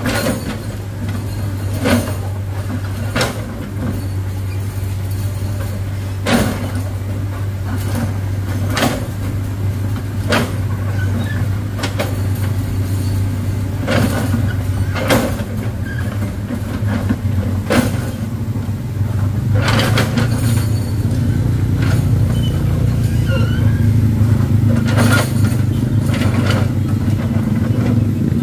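Excavator's diesel engine running steadily, with sharp knocks every second or two as the steel bucket strikes and scrapes the rock. The engine works harder from about two-thirds of the way in.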